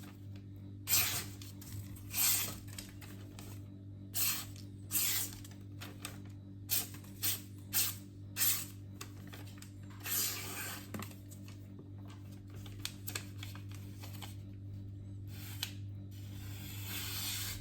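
Freshly stropped knife edge slicing through magazine paper: a series of short, hissing cuts, with longer strokes about ten seconds in and near the end, over a steady low hum. It is a cut test of the sharpened edge.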